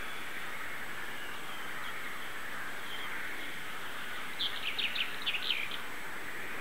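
Steady outdoor background hiss, with a short bird song about four seconds in: a quick run of about seven descending notes.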